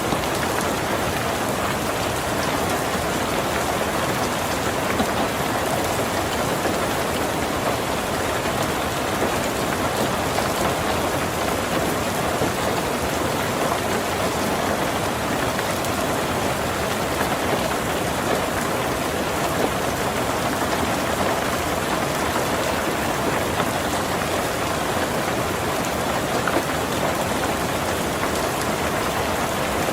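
Heavy rain drumming steadily on a tin roof, a dense even patter of countless drops.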